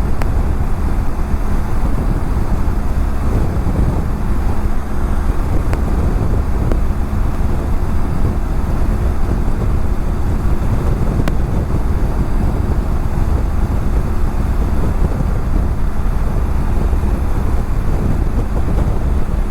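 BMW F700GS parallel-twin engine running at a steady highway cruise, mixed with heavy wind noise on the helmet-mounted microphone.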